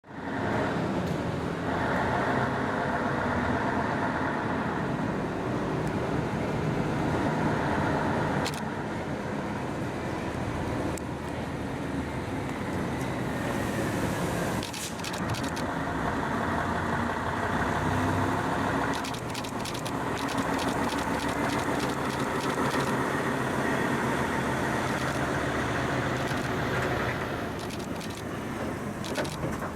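Diesel engine of a heavy low-loader truck carrying a railway car, running steadily, with a few sharp clicks and rattles partway through.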